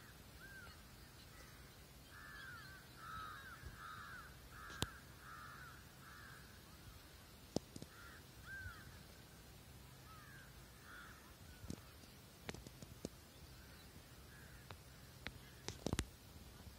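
A bird calling faintly in a long run of short, arched notes, about two a second, which die away about two-thirds of the way through. Scattered sharp clicks and knocks come in between, most of them near the end.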